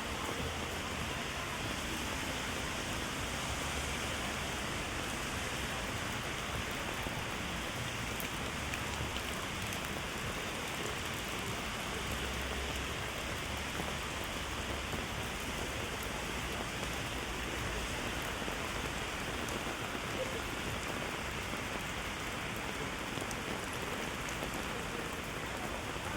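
Heavy rain falling steadily, pattering on an umbrella held overhead and on the wet pavement.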